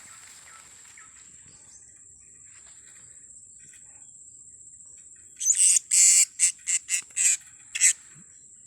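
Blue-crowned hanging parrots (serindit) giving a rapid series of short, shrill calls starting about five seconds in. A steady high, thin whine sounds underneath throughout.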